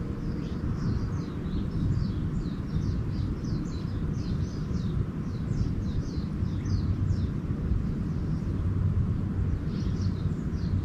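Small birds chirping in quick series of short, high, downward-swept notes, thickest in the first two-thirds and again near the end, over a steady low rumble.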